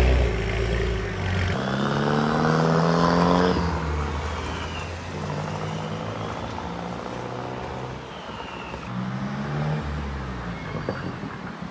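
VUHL 05 supercar's turbocharged engine accelerating: the engine note climbs from about a second and a half in, drops suddenly after about two seconds, then runs steadier and lower, with another short rise near the end.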